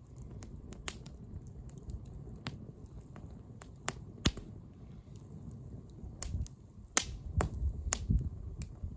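Wood bonfire crackling: irregular sharp pops and snaps, a few loud ones about four and seven seconds in, over a low steady rumble.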